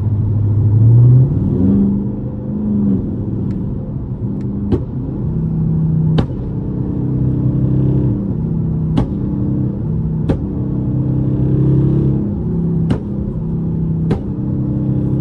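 Dodge Charger's engine driving under light throttle, heard from inside the cabin. The engine note rises about a second in, drops back, then steps up and down with the throttle. A few sharp ticks come every second or two.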